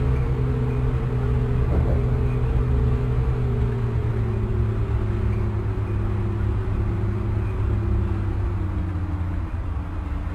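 Lisbon Metro ML90 train in motion: a steady low rumble from the running gear under a set of traction-motor tones that fall slowly in pitch as the train slows down.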